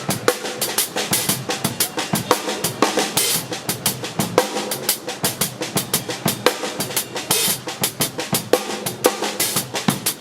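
Acoustic drum kit played live in a fast, busy groove, with bass drum, snare and cymbal strokes several times a second.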